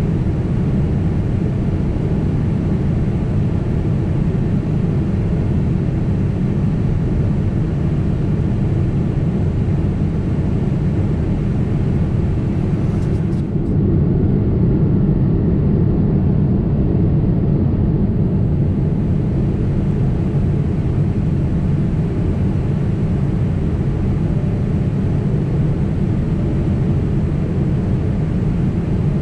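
Steady cabin noise inside a Boeing 767 airliner in flight: a low rumble of the engines and airflow, level throughout. A brief click comes about thirteen seconds in.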